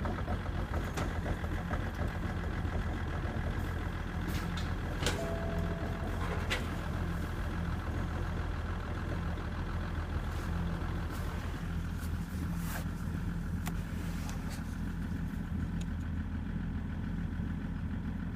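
BMW 530d's M57N three-litre straight-six common-rail diesel idling cold at −15 °C, shortly after starting, with scattered sharp ticks over its steady running; the owner ties the cold behaviour to bad glow plugs. A short two-note tone sounds about five seconds in.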